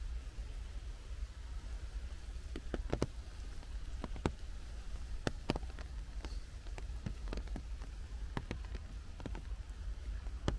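Rain in a forest: a steady soft hiss with scattered, irregular sharp drops landing close by, over a low steady rumble.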